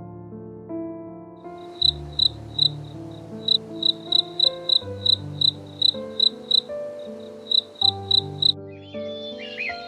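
A high, short chirping call repeated a little over twice a second, with a few short pauses, stopping just before the end, over background music.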